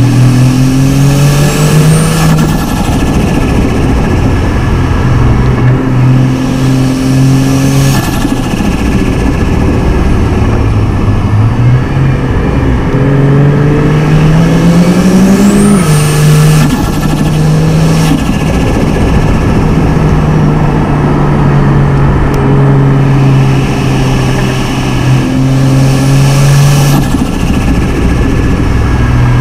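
Turbocharged straight-six car engine cruising and accelerating on and off, its note climbing steadily about halfway through before dropping at a gear change, with a thin high turbo whistle rising several times as it spools.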